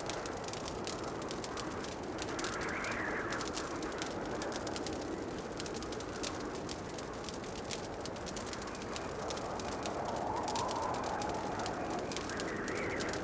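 Wood fire crackling in a fireplace: many small sharp pops and ticks over a steady rushing noise that swells a few times.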